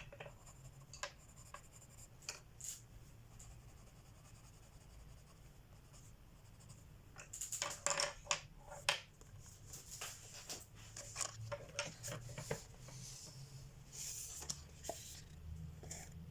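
Colored pencil scratching on paper in short strokes, sparse at first and busier and louder from about halfway through.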